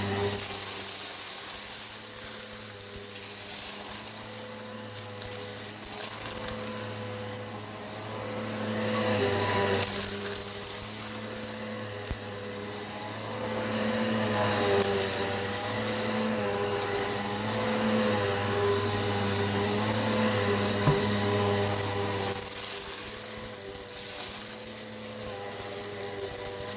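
Eureka PowerSpeed upright vacuum cleaner running steadily, its motor whine constant while the airflow hiss swells and eases every few seconds as it is pushed back and forth. A few sharp clicks come through, about twelve seconds in and again near twenty-one seconds.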